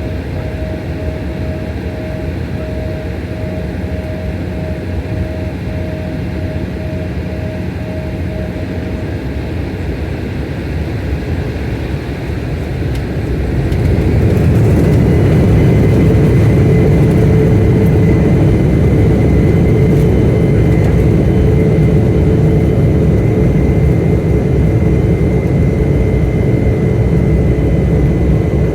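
Jet airliner engines heard from inside the cabin: a steady roar that, about halfway through, spools up and grows louder with a steady whine added, as the engines come up to takeoff power.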